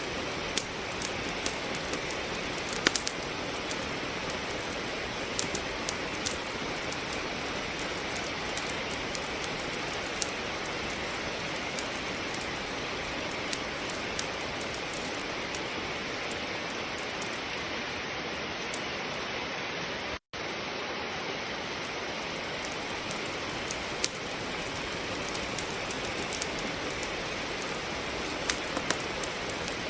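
Steady rain with wood crackling in a fireplace: an even wash of rain with scattered sharp pops from the burning logs. The sound cuts out for an instant about twenty seconds in.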